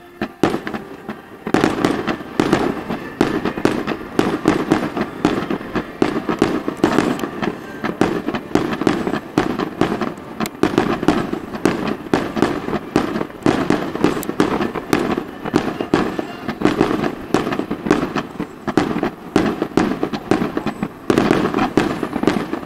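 Aerial fireworks exploding in a dense, rapid barrage of bangs and crackles, starting about a second and a half in and going on without a break.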